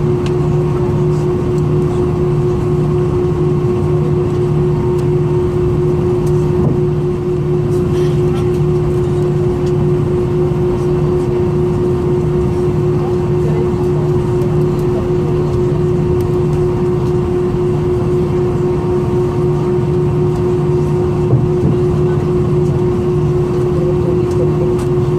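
Airbus A320 cabin noise on the ground before takeoff: a steady hum of the running aircraft systems, with a constant droning tone that does not change.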